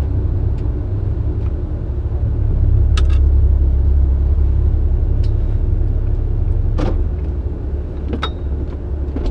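Porsche 911 flat-six idling, heard from inside the cabin: a steady low rumble that swells a little about three seconds in. Several short sharp clicks or knocks are scattered through it.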